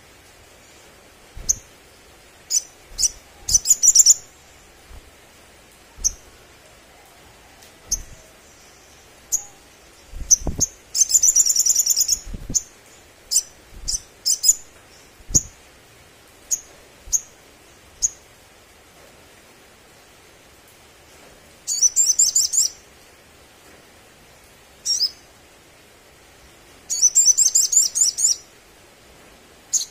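Olive-backed sunbird song: sharp, high single chirps scattered throughout, broken by three rapid trills of about a second each. A few faint low thumps lie under it.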